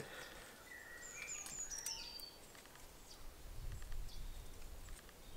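Woodland ambience: a songbird sings one short phrase of stepped, falling notes about a second in, over a few light clicks and scrapes of a knife carving a stick.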